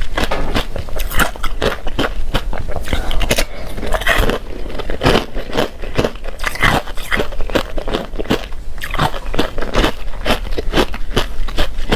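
Ice being bitten and chewed close to the microphone: a continuous run of sharp, crisp crunches, several a second.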